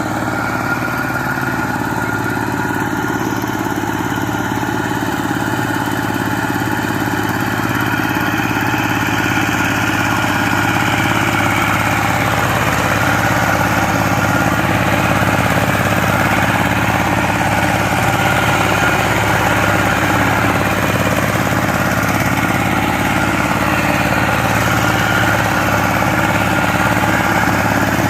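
Power tiller engine running steadily, getting slightly louder about ten seconds in.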